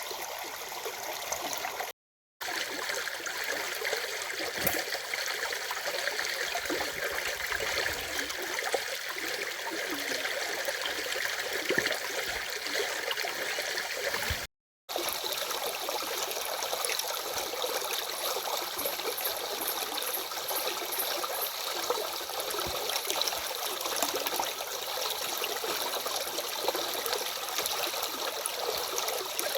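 Water of a small stream flowing and trickling steadily. The sound cuts out completely twice for a moment, about two seconds in and again about halfway through.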